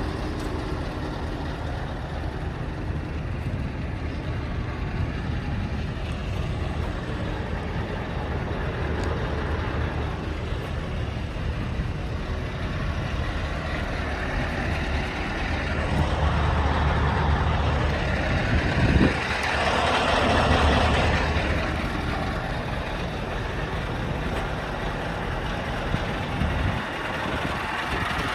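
Scania R730's 16-litre V8 diesel engine running steadily, with a louder stretch and a short hiss about two-thirds of the way through.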